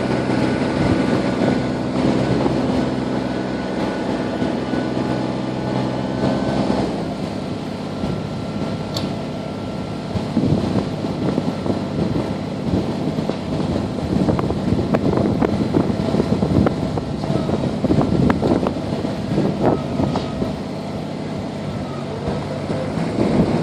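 Kubota BX sub-compact tractor's three-cylinder diesel engine running under load. Its steady note changes about seven seconds in, and from then on it is mixed with irregular crackling and rustling.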